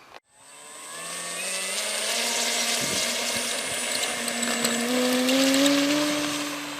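Electric motor and propeller of a radio-controlled model airplane throttling up, a steady whine that grows louder and climbs in pitch as the plane takes off and climbs out, then eases slightly near the end.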